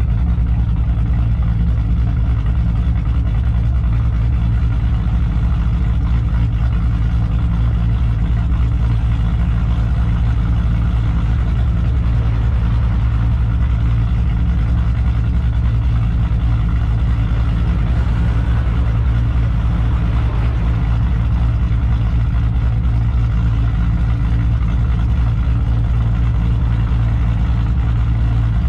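Straight-piped, cammed 4.6-litre three-valve V8 of a 2005–2009 Mustang GT running at a steady pace, a loud, low, even exhaust drone with no revving.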